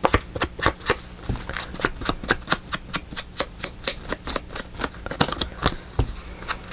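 A rapid, even series of sharp mechanical clicks, about five a second.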